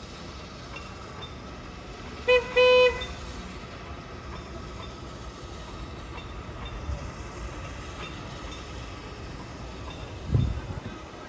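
A steam locomotive's whistle gives a quick pip and then a short single-note toot about two seconds in, over a steady background rumble. A dull low thump comes near the end.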